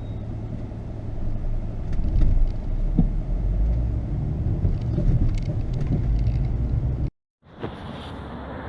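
In-cabin road and engine noise from a 2004 Volvo S60 2.0T's five-cylinder turbo petrol engine while driving: a steady low rumble that swells about two seconds in. Near the end it cuts off abruptly into a short silence, then a thinner hiss follows.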